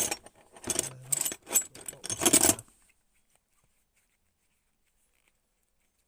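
Small zinc-plated steel bolts and parts jingling and clinking together as they are handled, for about three seconds, then stopping.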